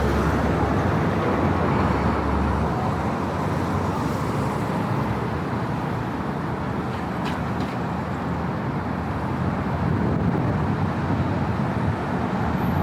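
Steady road traffic noise from passing cars on a city street, with a deeper low rumble in the first few seconds that then fades away.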